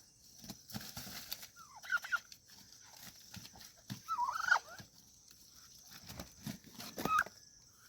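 Domestic turkey calling in three short groups of rising-and-falling yelps, the loudest about halfway through, among scattered low thumps.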